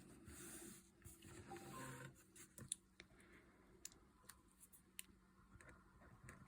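Fine liner pen dotting a border onto watercolour paper: a soft scratchy rustle for the first two seconds, then faint scattered ticks of the pen tip on the paper.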